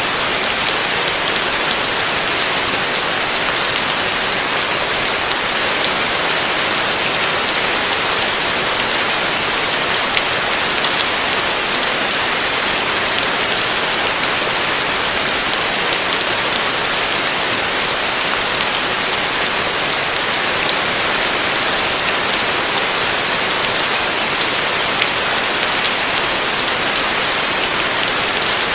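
Heavy rain falling steadily on a roof: a dense, even hiss of drops with fine patter and no let-up.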